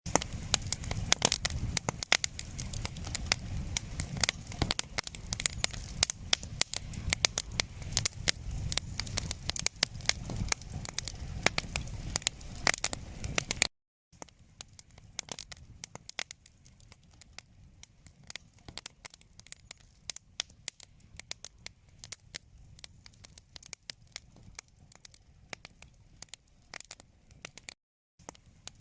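Wood fire crackling and popping in a fireplace. Loud, dense crackles over a low rumble, then a sudden brief cut-out about halfway through, after which the crackling continues much quieter and sparser.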